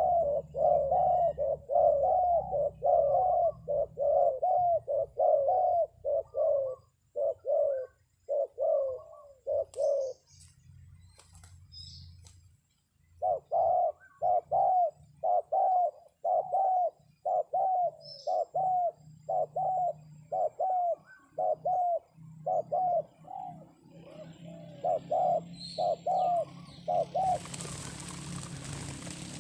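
Spotted dove (terkukur) lure call: a fast, even run of low coos, about two a second. It breaks off for a few seconds near the middle, then resumes. Faint high chirps of small birds come through in the gaps, and a steady rustling hiss comes in near the end.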